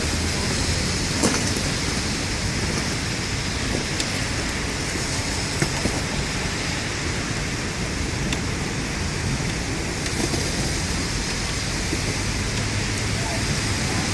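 Torrential thunderstorm rain pouring down in a steady, dense hiss with a low rumble underneath, and a few faint ticks of drops striking something.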